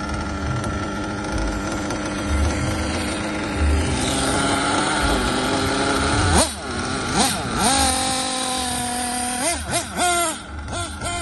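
Small nitro engine of a 1/8-scale RC car idling steadily, then revved in sharp throttle blips. It holds a higher speed for a couple of seconds, then gives a few more quick blips before dropping back.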